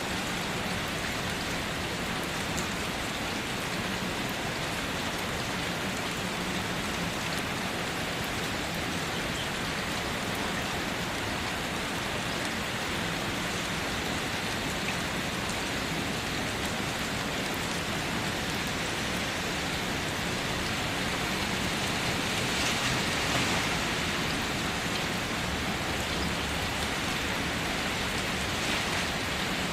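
Steady rain falling, an even hiss of drops that swells a little louder about two-thirds of the way through.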